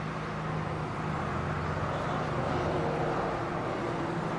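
Engine hum with a rushing noise, swelling to its loudest about three seconds in and then easing off.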